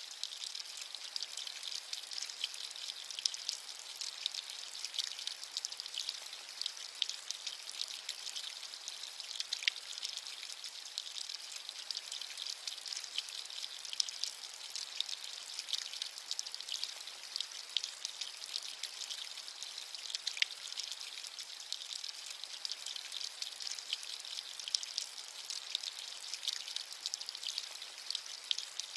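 Steady rain falling, a high, even hiss made of many fine drop patters.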